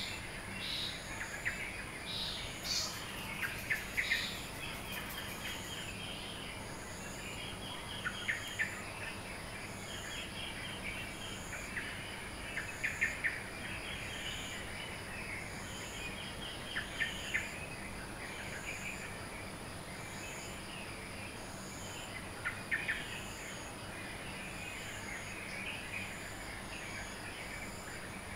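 Birds chirping and trilling in a dawn chorus, with scattered short calls throughout. Behind them runs a steady high insect drone and a regular high insect pulse about once a second.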